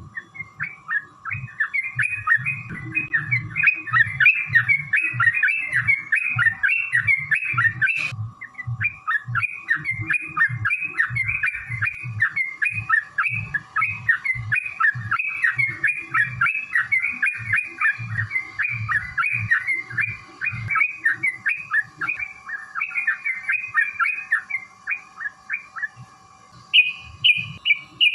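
Yellow-vented bulbul (trucukan) singing a long, rapid chattering song, many short notes a second without let-up, with a brief break and a click about eight seconds in. A few higher, clearer notes come near the end.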